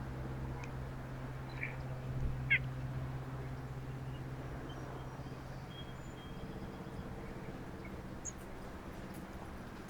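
A few short, scattered bird chirps over a steady low hum, the clearest a quick sweeping chirp about two and a half seconds in.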